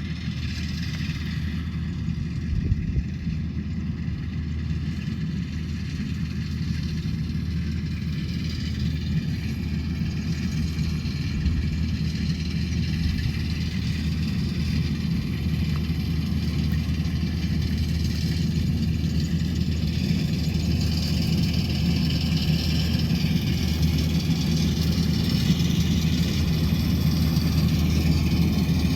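Rice combine harvester's diesel engine running steadily, growing slowly louder.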